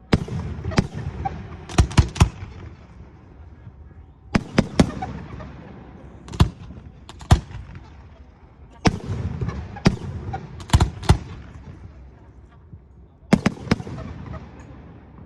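Fireworks display: sharp bangs of bursting shells in clusters, often two or three in quick succession, every second or two, each followed by a crackling rumble that dies away.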